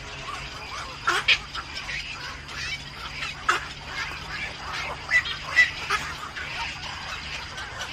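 Birds calling: a handful of short, sharp calls scattered through, over a faint steady hum.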